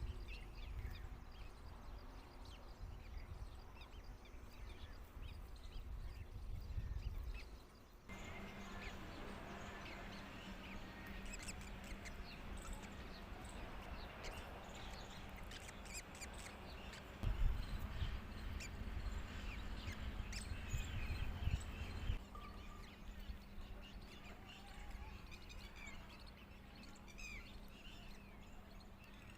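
Faint bird chirps over outdoor background noise, with low rumbling like wind on the microphone near the start and again midway.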